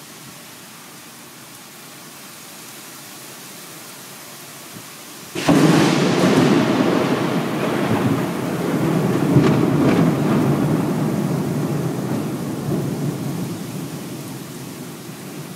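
Steady rain hiss, then about five seconds in a sudden loud thunderclap that rumbles on for several seconds and slowly fades back toward the rain.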